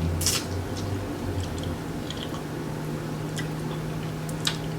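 Close-up chewing of a taco with wet mouth smacks and a few sharp clicks, the loudest near the start and again near the end, over a steady low hum.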